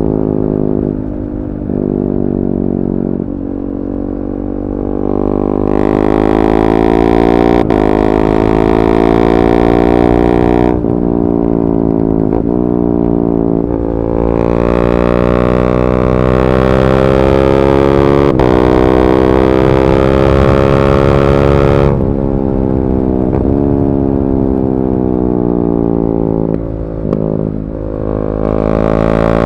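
KTM 390 Duke's single-cylinder engine, with an Akrapovic slip-on exhaust and decat pipe, accelerating through the gears. The pitch climbs steadily, then drops sharply at each quickshifter upshift, several times over.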